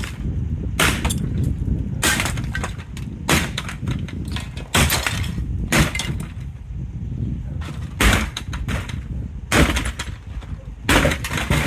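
Glass breaking under repeated hard blows, about ten sharp smashes roughly once a second or so, over a steady low rumble.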